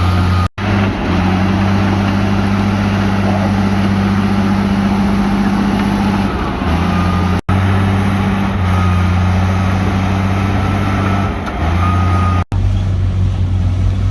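Heavy diesel engine of earthmoving machinery running steadily with a deep hum and a faint high whine. The sound drops out for an instant three times, with a change in tone after the last break near the end.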